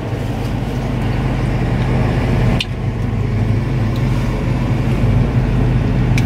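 Steady low hum of a vehicle engine idling, heard from inside the van's cabin. About two and a half seconds in, a single sharp click comes as the seat belt buckle latches.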